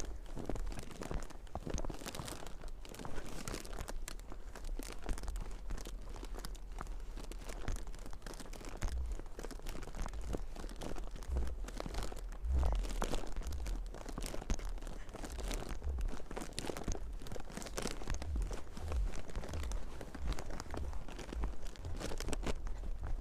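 Footsteps crunching on snow: a continuous run of short, irregular crunches.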